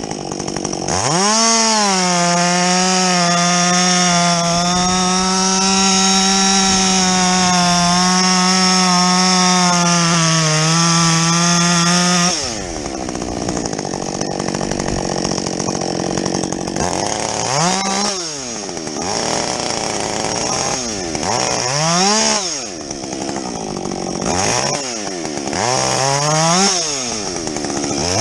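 Husqvarna 562XP two-stroke chainsaw with a modified muffler held at full throttle for about eleven seconds, as in a bucking cut through a log. The note then drops away, and the saw is blipped up and back down three times.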